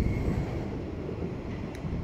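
Train wheels rolling over the rails: a steady low rumble, with a high wheel squeal fading out about half a second in.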